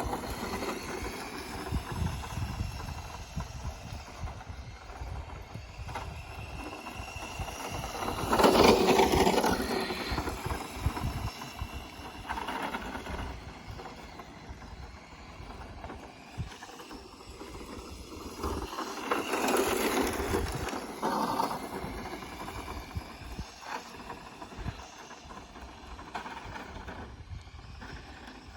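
Battery-powered radio-controlled car driving over stony ground, its motor whine rising and falling with speed. It gets loud twice, about eight and about nineteen seconds in.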